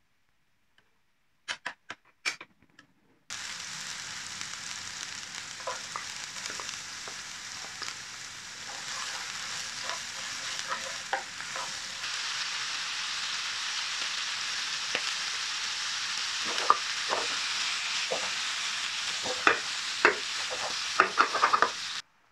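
A few faint clicks, then from about three seconds in chicken feet sizzling steadily in a frying pan, with sharp clicks and scrapes of a utensil as they are stirred, more frequent near the end. The sizzling cuts off suddenly.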